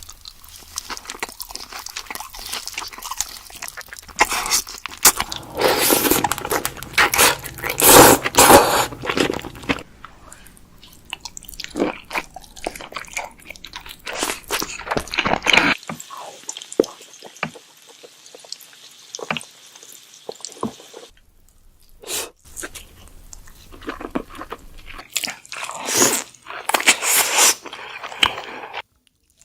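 King crab legs being cracked and eaten close to the microphone: shell crunching and cracking with wet chewing, in loud bursts with quieter stretches between.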